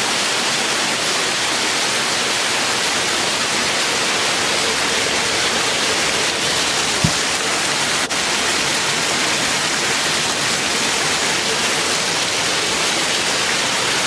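A steady, loud rushing hiss with no pitch to it, and a single short click about seven seconds in.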